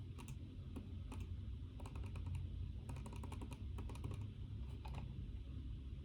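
Typing on a computer keyboard: irregular runs of key clicks, busiest about three seconds in, over a steady low room hum.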